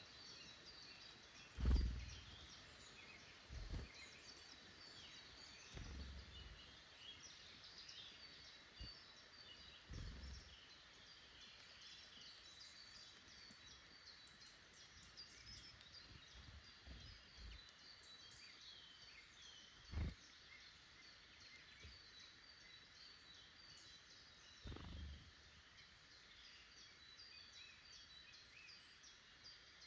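Faint woodland birdsong: many small birds chirping and trilling in the background throughout. A handful of soft low thumps come through, the strongest about two seconds in and again around twenty seconds.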